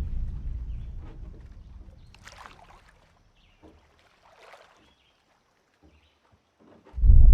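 Movie trailer sound design over cinema speakers. A deep booming hit dies away over about three seconds into a hush with a few faint rustles, then a sudden loud, deep boom hits near the end.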